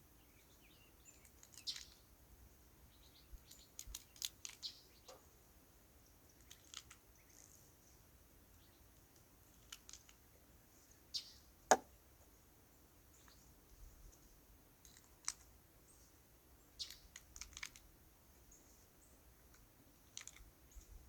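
Faint, irregular light clicks of .22 LR cartridges being pressed into rifle magazines, with one sharper click about twelve seconds in.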